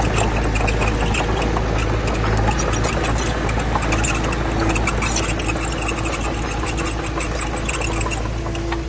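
Diesel engine of heavy earthmoving machinery running steadily, with frequent rattling and clanks. A steady tone joins in about four seconds in and stops near the end.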